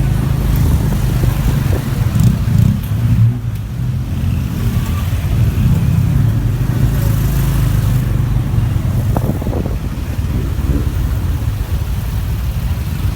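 Motorbike engine running under way in city traffic, heard from the bike itself, steady and low, swelling briefly about two to three seconds in.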